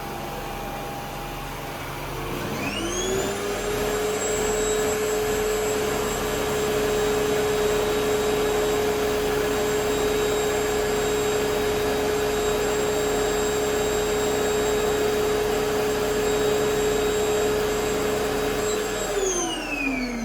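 Samsung 8980 vacuum cleaner motor ramping up about two and a half seconds in to a steady high whine with airflow hiss. It runs evenly, then winds down with a falling pitch near the end.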